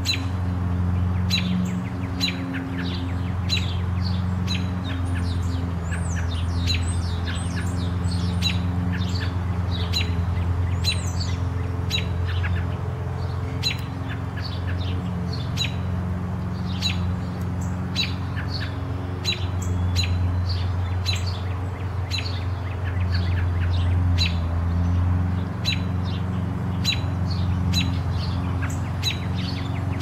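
Small birds chirping, short high chirps about one or two a second, over a steady low hum.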